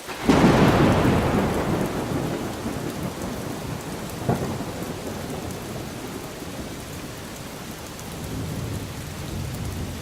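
Thunderstorm with heavy rain: a thunderclap about half a second in that rumbles away over a few seconds, over steady pouring rain. A short sharp crack comes about four seconds in, and a low rumble of thunder rises near the end.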